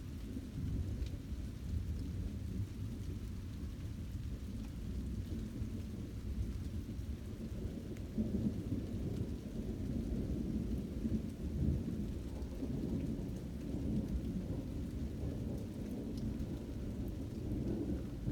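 Thunder rumbling continuously, low and rolling, with swells about eight and eleven seconds in.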